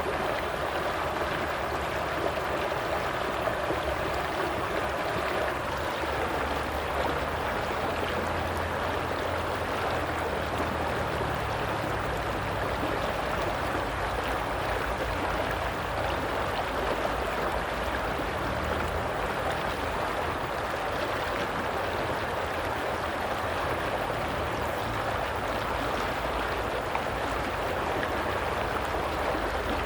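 Stream water flowing and burbling steadily.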